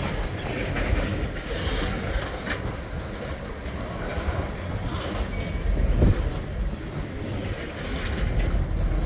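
Freight train cars rolling past: a steady rumble of steel wheels on the rails with clicking over the rail joints, and a louder knock about six seconds in.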